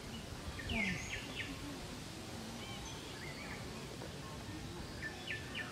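Wild birds calling over a steady outdoor background noise: a cluster of short chirps and downward-sweeping notes about a second in, a few fainter calls in between, and another cluster near the end.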